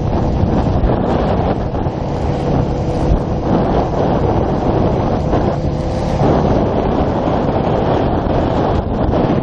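Heavy wind buffeting on the microphone of a moving motorcycle, with the faint note of a Yamaha YZF-R125's 125 cc single-cylinder engine beneath it.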